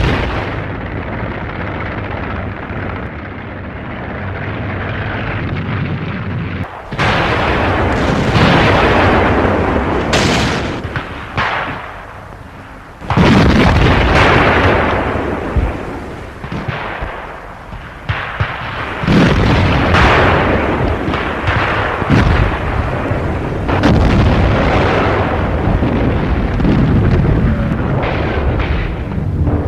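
Tiger I tank's 88 mm KwK 36 gun firing a series of heavy cannon shots several seconds apart, each blast trailing off in a long rumble.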